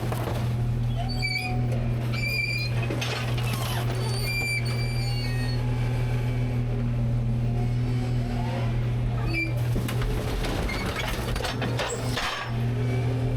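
Rear-load garbage truck running with a steady low hum from its engine and hydraulics. Short high squeaks and scattered knocks come from the hopper and its packer mechanism.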